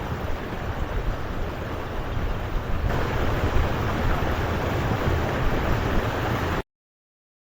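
Steady rushing noise with a strong low rumble. It gets louder about three seconds in and cuts off abruptly near the end.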